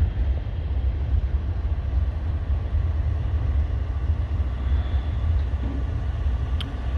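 Freight train rolling slowly past, a steady low rumble of its wheels and cars, with one sharp click near the end.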